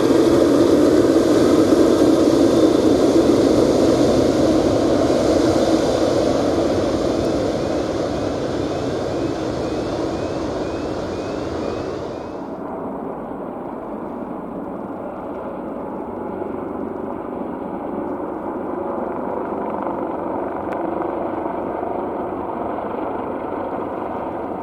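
Jet aircraft engines running, a loud, wide rushing noise that slowly eases; about halfway through, the hissing top end cuts off abruptly, leaving a steadier, lower engine rumble.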